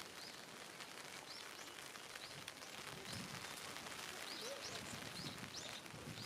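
A small bird chirping repeatedly, short high calls every second or so, over a faint steady hiss of light rain.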